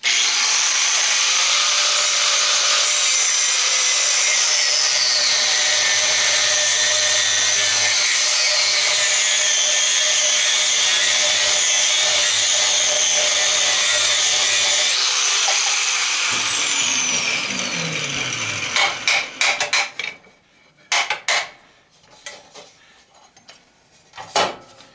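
A power tool cutting metal, running steadily under load with a shifting whine for about sixteen seconds, then switched off and winding down. After that come a few sharp knocks as parts are struck or pried.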